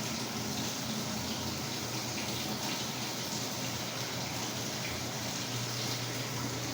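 Samsung WA45T3200AW top-load impeller washer running water into the tub in a steady rush. A low hum under it grows stronger near the end.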